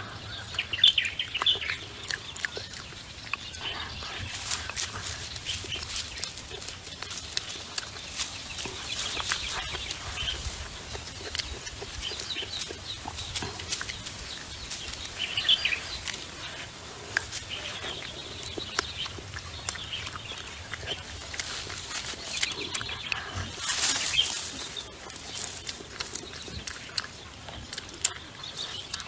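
Domestic chickens clucking in short calls now and then, over steady outdoor background noise with scattered clicks and rustling.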